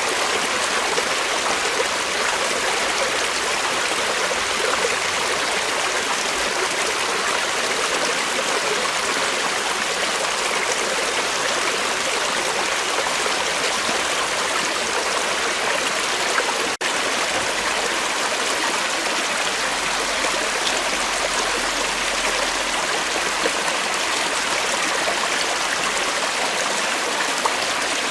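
Creek water flowing over rocks in a steady, even rush, with one split-second dropout about two-thirds of the way through.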